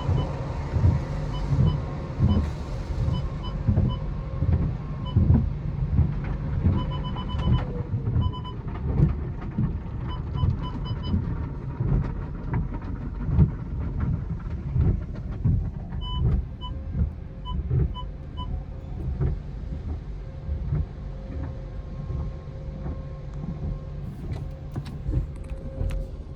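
Automatic car wash machinery running with an uneven, pulsing rumble, with short runs of faint electronic beeps repeating several times.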